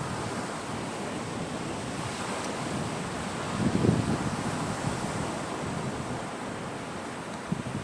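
Sea waves washing onto the shore in a steady rush, with wind buffeting the microphone. A louder low surge comes about halfway through.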